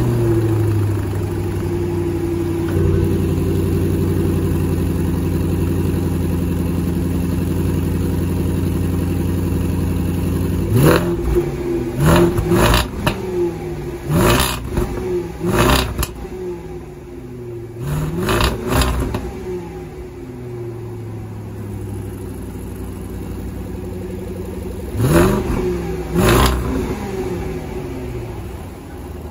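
The 2021 Range Rover Sport SVR's supercharged V8 exhaust, valve closed, runs at a steady fast cold-start idle. About a third of the way in come about nine short blips of the throttle in small groups, each rising and falling back. It then settles to a lower idle.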